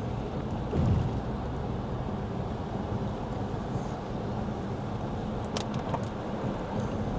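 Steady road and tyre noise of a Lexus ES 350 sedan on a wet road, heard from inside the cabin. A brief low swell comes about a second in, and a few faint clicks come near the end.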